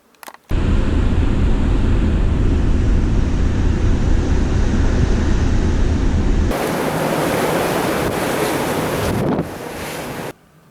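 Loud wind buffeting the microphone, a deep rumbling rush that starts abruptly. About six and a half seconds in it changes sharply to a brighter, hissier rush, which drops a little before cutting off near the end.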